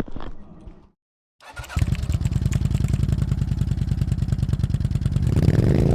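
Motorcycle engine starting up and running with a steady, rapid pulsing beat, revving up near the end.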